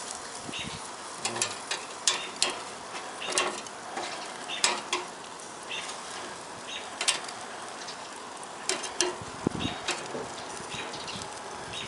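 Hamburgers sizzling on a charcoal grill: a steady hiss broken by irregular sharp crackles and pops.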